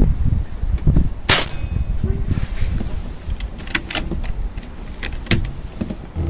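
Air rifle firing a pellet: one sharp crack about a second in, followed by several lighter clicks of the rifle being handled, over low wind noise on the microphone.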